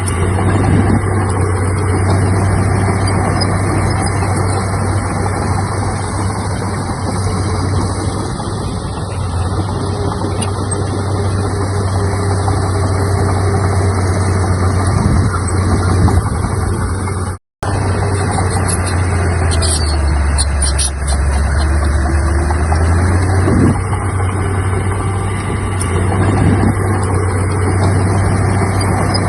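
Heavy diesel earthmoving machinery running steadily with a deep engine drone. The sound cuts out briefly about two-thirds of the way through.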